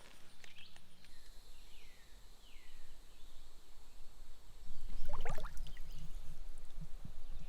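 Water splashing and sloshing, starting about five seconds in, as a smallmouth bass is let back into the creek. Faint descending bird chirps come earlier.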